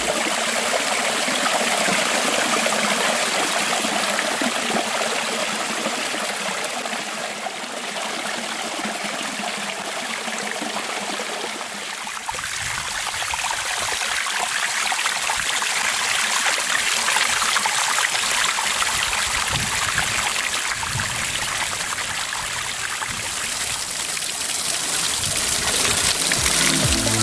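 Water running down the stone cascades of a garden waterfall: a steady rush of falling, splashing water.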